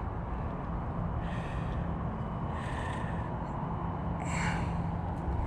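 A person's breathing: three short breaths about a second and a half apart, over a steady low rumble with a faint hum.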